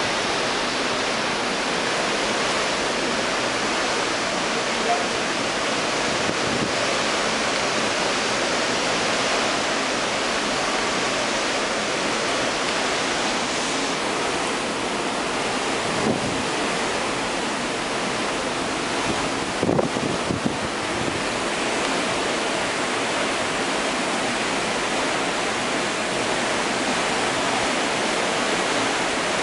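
Steady rushing of wind and sea heard from a ship's balcony, with wind buffeting the microphone. A few brief bumps break through, a small cluster of them about two-thirds of the way in.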